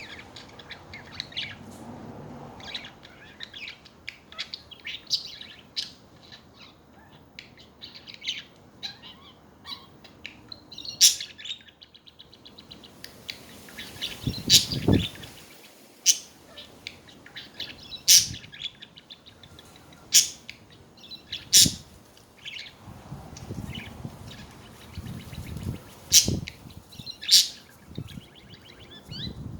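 Pet budgerigars chattering: a steady run of soft, quick chirps and warbles, with loud, sharp calls every second or two through the latter part.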